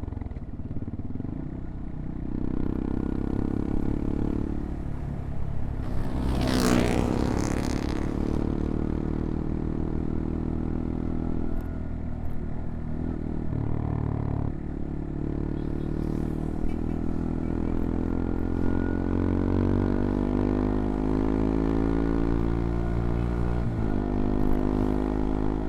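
CFMoto Papio XO-1's small single-cylinder engine running under way, rising and falling in pitch with short dips at gear changes and a long climbing pull near the end. A brief loud rush of noise comes about six to eight seconds in.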